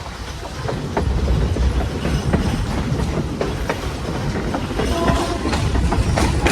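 Passenger train cars rolling on the track: a steady low rumble with clicks of wheels over rail joints, growing louder about a second in. A brief wheel squeal sounds about five seconds in.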